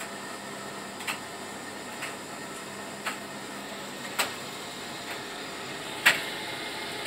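Whirlpool 11 kg washing machine running very quietly: a steady soft hum with light clicks about once a second, the loudest near the end.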